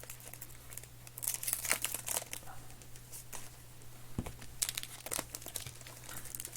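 Trading card pack wrappers being torn open and crinkled by hand, in crackly bursts that come loudest about a second in and again near five seconds, with a single low thump just after four seconds. A steady low hum runs underneath.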